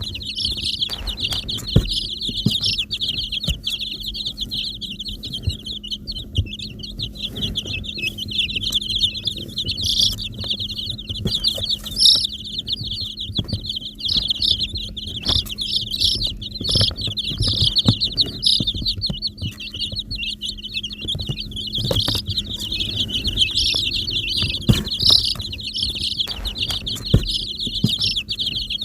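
A group of baby chicks peeping continuously in a dense, high-pitched chorus, with scattered light taps and knocks and a steady low hum underneath.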